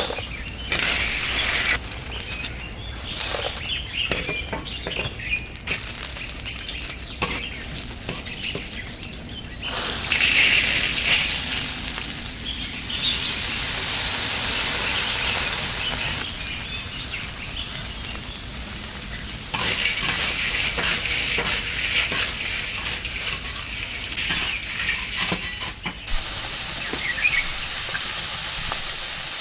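Food frying and sizzling in hot oil, with scattered clicks of a cooking utensil.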